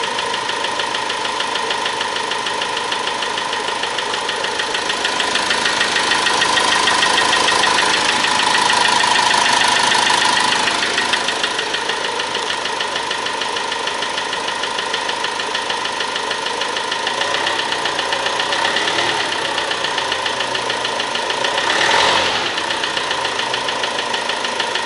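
Opel Vivaro 2.0 CDTI four-cylinder diesel engine idling with a fast, steady knock, growing a little louder for a few seconds around a quarter of the way in. The knock is mechanical rather than an injector, and with metal shavings in the oil filter it points to worn bearings.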